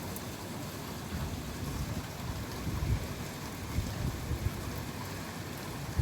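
Typhoon wind and rain: a steady rushing noise with irregular low gusts rumbling on the microphone and faint patter of rain.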